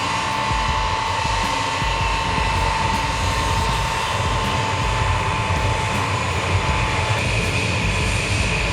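Jet airliner engines running with a steady roar and a high whine that slowly drops in pitch.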